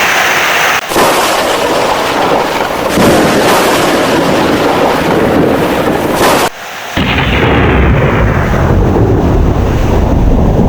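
Heavy rain with thunder rumbling. There are two abrupt dropouts, about a second in and about six and a half seconds in. After the second, a deep rumble of thunder fills the low end under the rain.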